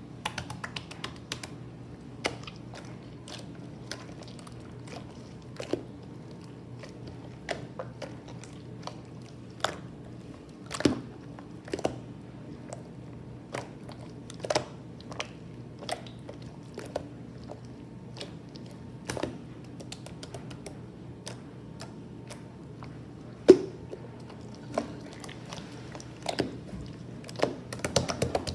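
Hands squishing and poking a jiggly butter slime, making irregular small clicks and pops, some louder, over a steady low hum.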